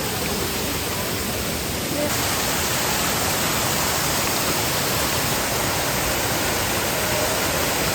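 Waterfall: a steady rush of falling water, becoming louder and brighter about two seconds in.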